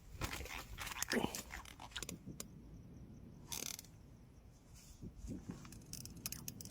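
Faint, scattered small clicks and ticks of fishing tackle and a caught fish being handled, with a short hiss about three and a half seconds in.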